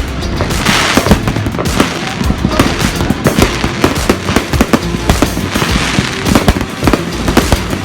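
Fireworks going off: a dense run of sharp pops and bangs, with surges of crackling hiss every few seconds.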